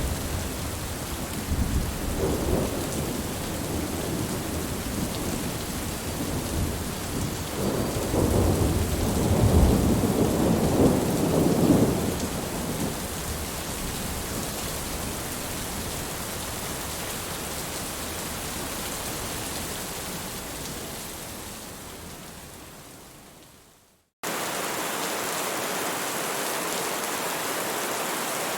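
Steady rain with rolling thunder that swells and rumbles through the first half, loudest a little before the middle. The rain then fades out to a moment of silence, and a steadier rain hiss with less rumble starts abruptly near the end.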